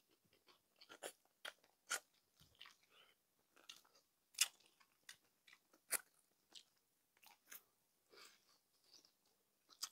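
Close-up chewing and biting into crispy pata, deep-fried pork leg, with its crisp skin crunching in irregular sharp crackles. The loudest crunches come about halfway through.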